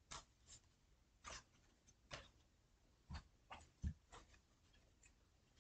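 Near silence: room tone with several faint, scattered soft taps.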